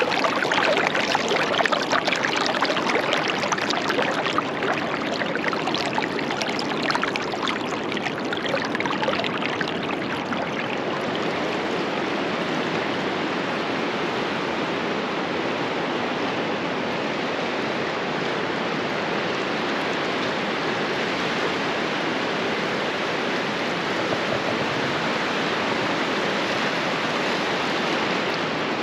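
Surf washing on a beach: a crackling, fizzing wash for the first ten seconds or so, settling into an even rushing hiss.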